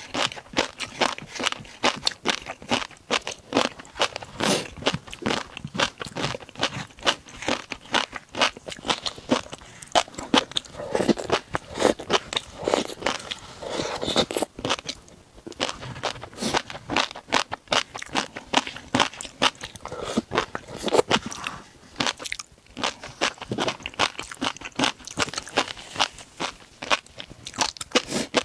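A person biting and chewing crunchy seafood, with a dense, rapid crunching that goes on almost without a break and pauses briefly twice.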